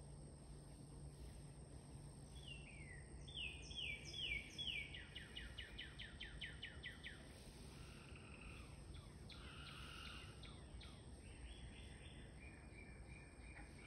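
Faint songbirds singing outdoors. There are a few falling chirped notes, then a quick trill of about eight notes a second around the middle, then steadier whistled phrases toward the end.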